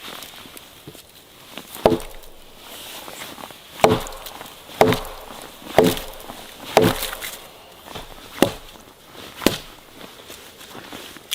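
Wood being chopped: seven hard strikes, roughly a second apart, each a sharp knock with a short ringing tone from the wood.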